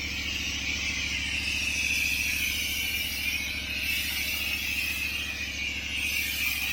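Petrol pressure washer engine running steadily under load, with the steady hiss of the high-pressure water jet spraying over block paving.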